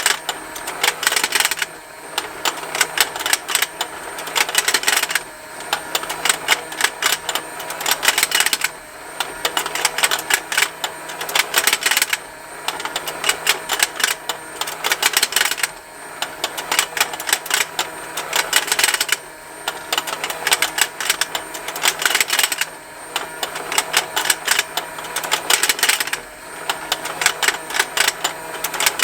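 Plastic rotating fishing-lake toy running continuously: rapid plastic ticking from its motor-driven mechanism and snapping fish, in runs broken by a short lull about every three and a half seconds, over a faint steady motor hum.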